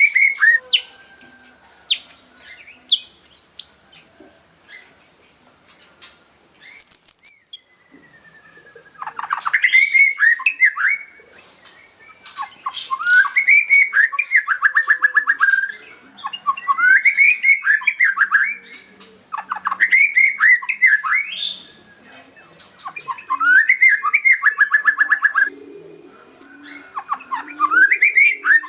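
White-rumped shama (murai batu), a young bird just out of its juvenile plumage, singing its plain basic song: scattered short chirps at first, then from about nine seconds in a string of repeated phrases about every two seconds, each a rising whistle that ends in a fast rattling trill.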